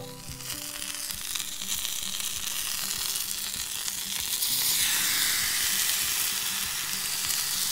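Potato slices and chicken drumsticks sizzling in a hot black frying pan. The sizzle gets louder about five seconds in, as a sausage and a steak are laid in the pan.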